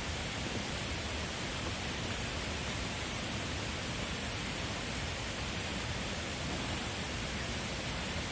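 Steady hiss with a short, very high-pitched pulse repeating about once a second.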